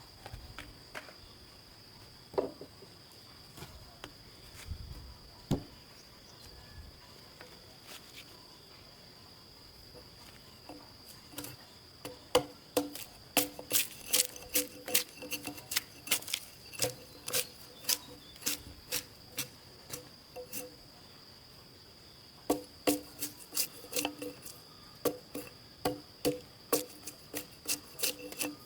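Steady high-pitched drone of insects, with sharp ringing knocks in runs of about two a second starting about halfway through, pausing briefly and starting again near the end.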